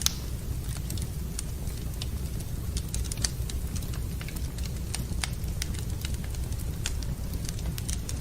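Wood fire crackling in a fireplace: irregular sharp pops and snaps over a steady low rumble, with a louder pop right at the start and another about three seconds in.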